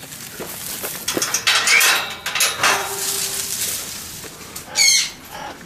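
Metallic clattering and rattling of an aviary's wire and fittings, with a short harsh parrot squawk about five seconds in.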